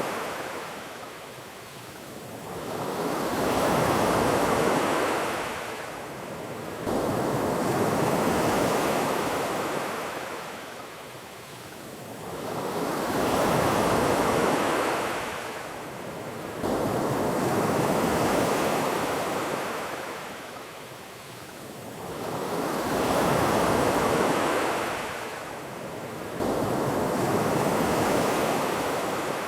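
Ocean waves surging and washing up on a beach, the surf noise swelling and fading in repeated waves every few seconds, some swells starting abruptly.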